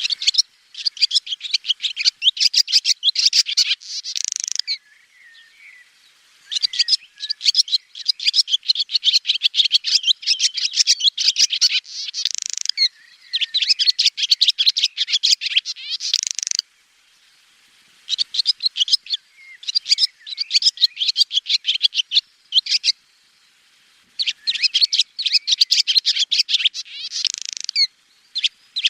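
Swallow twittering: bouts of rapid, high chirps and trills, each a few seconds long, with short pauses between them.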